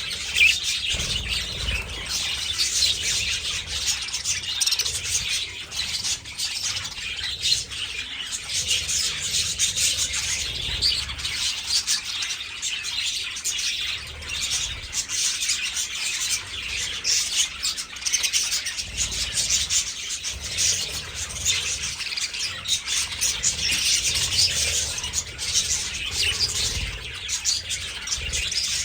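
A flock of budgerigars chirping and chattering continuously, many birds calling over one another.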